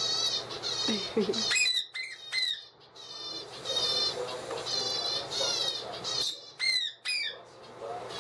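Young Indian ringneck × Alexandrine parakeet chick giving repeated raspy, wavering begging calls, each about half a second long, broken by a few short squawks that drop in pitch.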